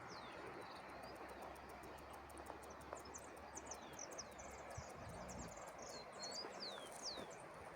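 Small birds chirping, many quick high falling whistles overlapping, over a steady outdoor hiss and a fast, even high ticking.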